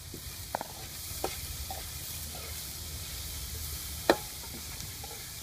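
Shredded food frying in a wide metal pan over a wood fire, a steady sizzle as it is stirred. A few sharp clicks of the utensil against the pan, the loudest about four seconds in.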